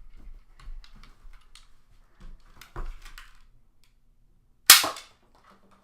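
Nerf Sling Strike slingshot blaster fired once: a single sharp snap about three-quarters of the way in, with faint clicks of handling and aiming before it.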